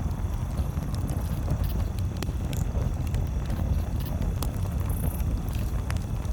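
Campfire crackling: scattered sharp pops, irregular and a second or so apart, over a steady low rumble.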